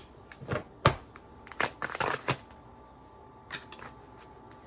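Tarot cards being handled: a scatter of short, irregular flicks and taps as cards are shuffled and laid down, with a brief lull in the middle.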